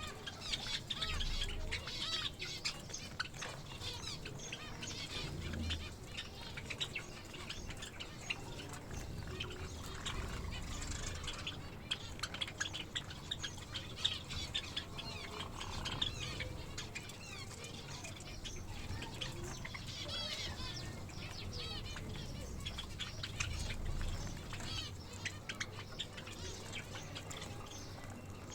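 A flock of caged finches, Java finches among them, chirping constantly in many short overlapping calls, with fluttering wings.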